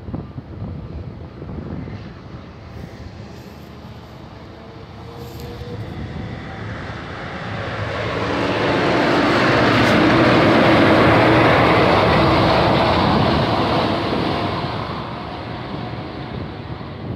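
GO Transit double-deck commuter train passing close by, a steady rumble of wheels on rail that swells to its loudest in the middle and then fades away.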